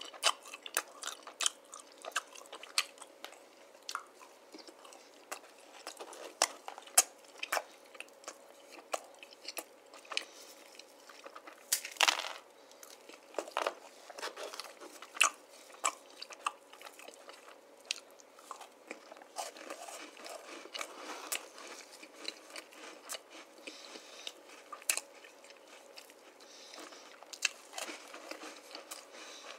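Close-miked eating of a Milky Way bar and cream-filled cookies: bites and chewing with many sharp, irregular crunches, the loudest about twelve seconds in.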